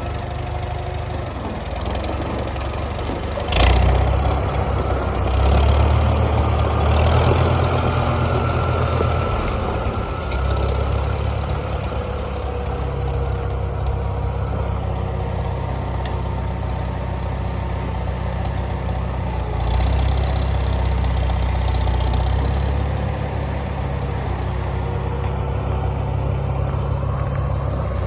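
Farmall 400 tractor's four-cylinder engine running at a low, steady speed. A sharp knock comes about three and a half seconds in, and the engine then runs louder for several seconds, and again for a few seconds later on.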